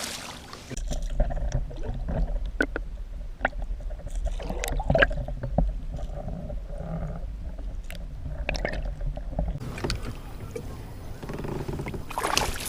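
Scattered knocks, clicks and light water sloshing around a fishing kayak as a bass is landed and handled, over a low rumble that stops about nine and a half seconds in.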